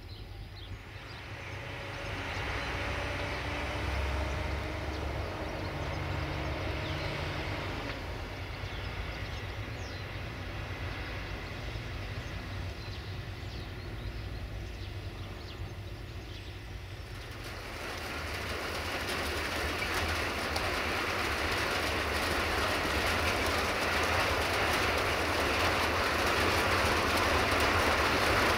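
A train running on the track, with the rolling noise of wheels on rails. A few faint steady tones rise about two seconds in. Past the middle the rail noise swells and keeps getting louder, as the train draws closer.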